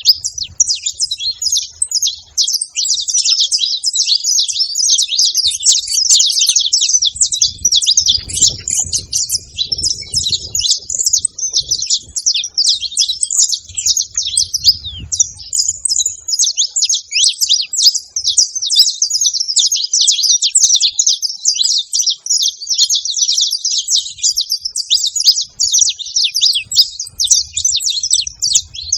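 A flock of saffron finches chirping at a feeding spot, a dense, continuous chatter of many overlapping high calls. A faint low rumble sits underneath for a few seconds near the middle.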